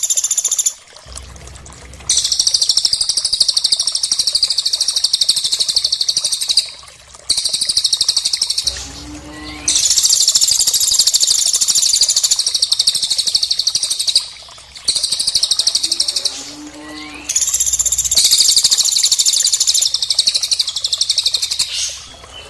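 Very rapid, high-pitched bird trills in three long bursts of about five seconds each, with short pauses between, from a looped birdsong training recording mixing cililin and woodpecker calls.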